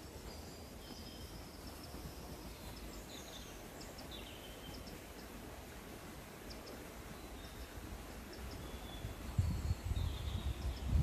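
Woodland birds chirping and calling in short high notes and brief falling whistles, scattered over a low, steady outdoor rumble. Near the end come a few loud, low thumps and rumbles.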